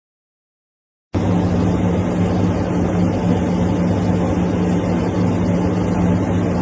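A loud, steady machine drone with a constant low hum starts abruptly about a second in, after silence, and runs on unchanged.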